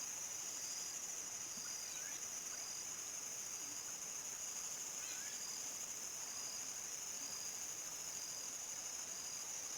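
Crickets singing at dusk: a continuous high-pitched trill chorus, with a fainter pulsing chirp beneath it and two faint short chirps about two and five seconds in.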